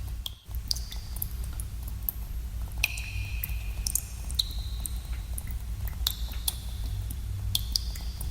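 Water drops falling at irregular intervals in a cave, each a sharp plink, many with a short high ringing tone after it, over a steady low rumble.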